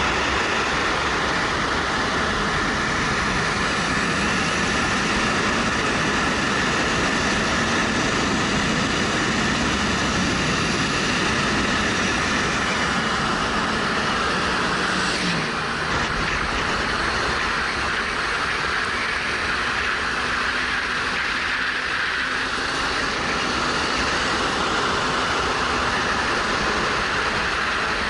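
Wind rushing over a helmet-mounted action camera at riding speed, with a Suzuki GW250's 248 cc parallel-twin engine running underneath, steady throughout.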